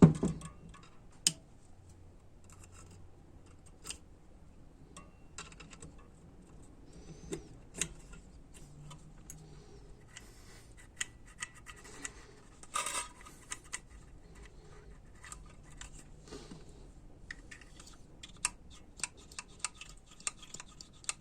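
Small metal transmission valve-body parts being handled: sparse light clicks, taps and scrapes as springs, valves and retainers are fitted into the valve body, with a few sharper clicks about a second in and in the middle.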